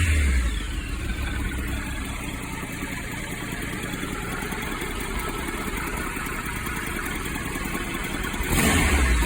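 Triumph Explorer 1200's three-cylinder engine idling steadily, with a brief rise in revs near the end.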